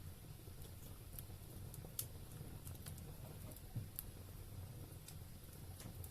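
Wood fire burning in a fireplace: faint, irregular crackles and pops over a low steady rumble, with sharper pops about two seconds in and again about four seconds in.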